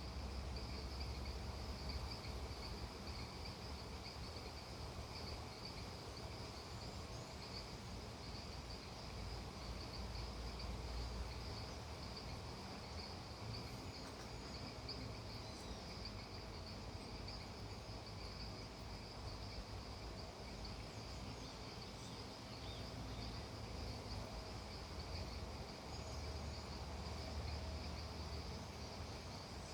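Steady chorus of crickets and other insects, a constant high trill, over a low rumble, with a few faint chirps here and there.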